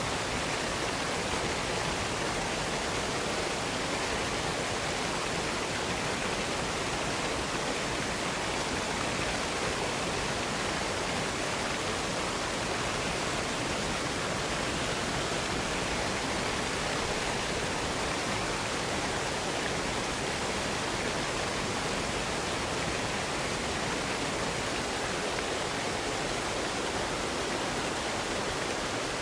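Waterfall running: a steady, unchanging rush of falling water.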